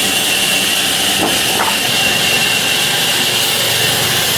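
Sawmill saw running steadily through wood, a loud even noise with a high whine held on one note.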